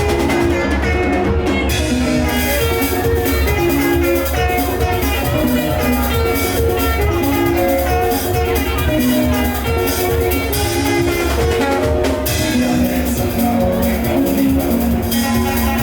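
Live band music: a guitar melody of held, stepping notes over a steady bass and drum-kit beat.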